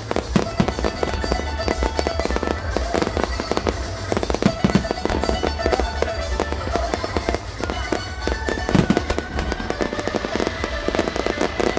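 Fireworks going off in quick succession: a dense run of bangs and crackles over a steady low rumble, with music playing underneath.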